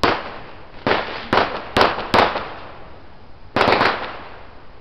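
Fireworks going off: a string of sharp bangs, about six in quick succession, each trailing off in an echo, with a double bang near the end.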